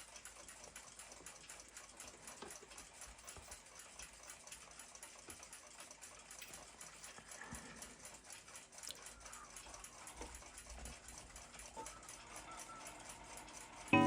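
Faint, scattered small clicks and handling noises of small parts and tools being handled at a workbench. A loud ringing pitched tone starts abruptly at the very end.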